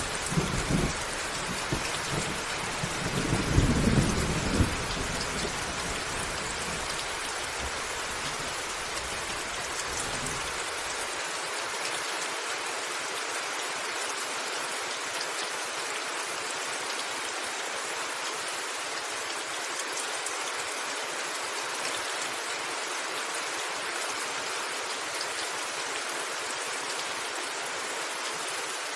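Steady rain pattering on a roof, with a low thunder rumble in the first few seconds that dies away within the first third. After that the rain hiss goes on alone.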